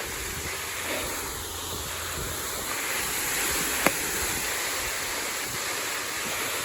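A tarp piled with storm brush dragged across the ground, giving a continuous rustling scrape, with one sharp click about four seconds in.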